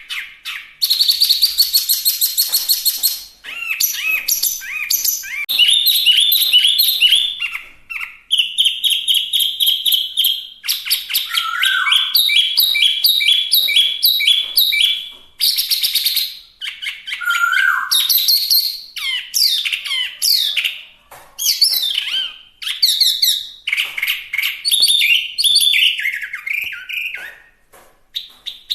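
Chinese hwamei (wambi) singing a long, varied song: loud phrases of rapidly repeated whistled and trilled notes, each phrase different, with short pauses between them.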